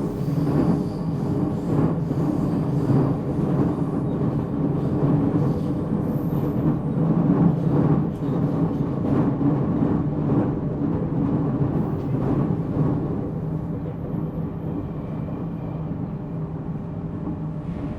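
Interior running sound of a JR Central 313 series motor car (MoHa 313-7) on the move: a steady rumble of wheels on rail with a constant hum underneath, easing off a little in the last few seconds.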